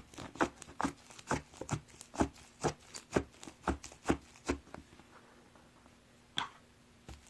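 Slime being pressed and squished by hand, giving crisp clicks and pops about twice a second that stop a little under five seconds in, with one more click near the end.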